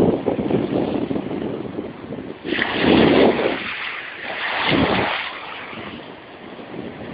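Sea waves washing in, with wind buffeting the microphone; two louder surges of rushing noise, one about two and a half seconds in and another just before five seconds.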